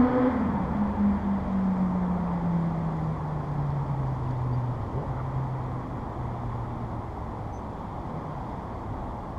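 Suzuki GSR750 motorcycle with a Scorpion aftermarket exhaust passing by: its inline-four engine note drops sharply in pitch right at the start, then keeps falling slowly and fades as the bike rides away, leaving a steady background hiss.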